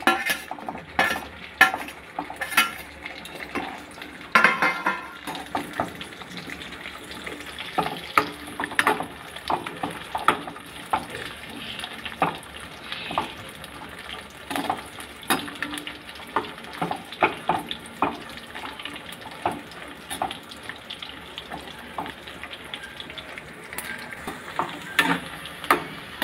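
Dry fruits (cashews, almonds, raisins, fox nuts and dates) frying in hot ghee in a kadhai: a steady sizzle under repeated clinks and scrapes of a metal spoon stirring against the pan, the clinks loudest in the first few seconds.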